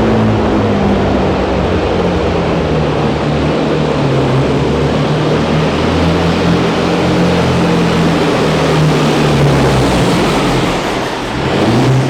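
Diesel truck engine working hard under load on a pull, holding a high, steady pitch for about ten seconds, then falling away and quickly revving up again near the end.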